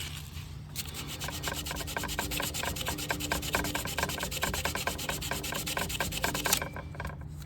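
Sandpaper rubbed quickly back and forth by hand over rusty metal at a snowblower engine's ignition-coil mounting points, scouring the rust off down to clean metal. The strokes start just under a second in and stop about six and a half seconds in.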